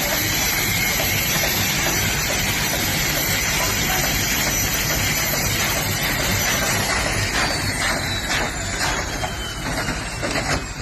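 Helicopter turbine engine and rotor running as a loud, steady rushing noise, with a high whine that starts falling in pitch about two-thirds of the way in, as the engine winds down.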